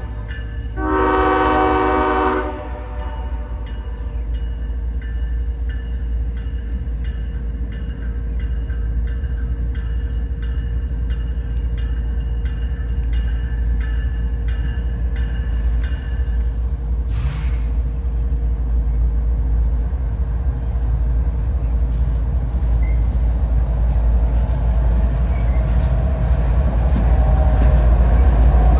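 Diesel freight train locomotive sounding its horn once, a chorded blast about a second in lasting a second and a half, then a steady low rumble from the train that grows gradually louder.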